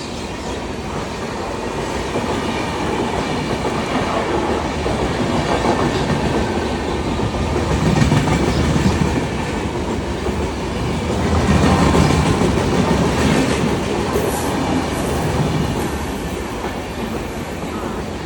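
Train running on the rails, its wheels clattering over the rail joints in a dense, loud rumble that swells about halfway through and again a few seconds later.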